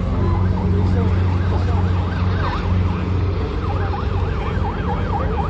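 Emergency siren in a fast yelp, its pitch sweeping up and down about three times a second. It starts about two seconds in, breaks off briefly and resumes, over a steady low drone.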